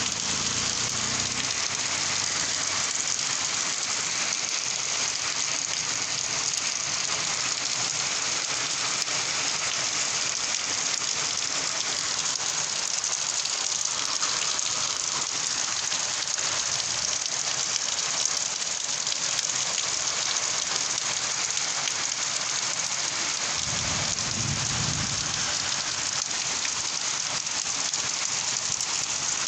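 Steady rain falling, an even, dense patter with no let-up. A brief low rumble comes through about 24 seconds in.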